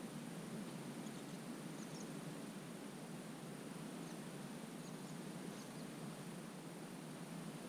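Soft, steady outdoor wetland ambience: an even background hiss with a few faint, short high chirps scattered through it, about five in all.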